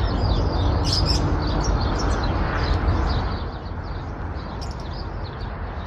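Birds giving many short, high chirps over a steady background noise; the noise eases off about three seconds in.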